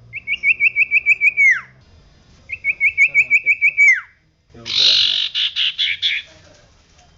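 Common iora (cipoh) singing: two phrases of about eight quick rising whistled notes, each closing on a falling note, then a harsher, buzzier chattering run of notes about four and a half seconds in.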